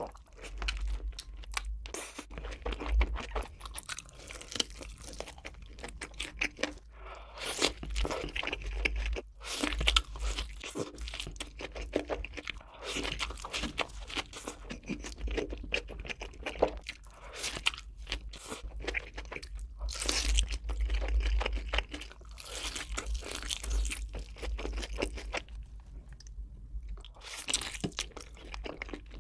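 Close-miked eating: a person biting and chewing crunchy food, with dense, irregular crunching and crackling all through.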